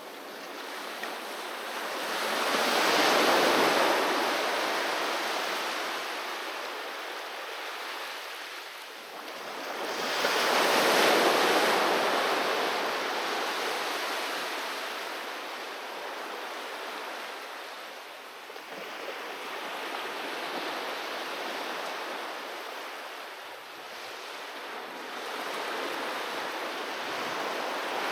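Sea waves breaking on a beach: surf washes in and drains away in long swells, with two big breakers about 8 seconds apart early on and softer ones later, plus a little wind noise on the microphone.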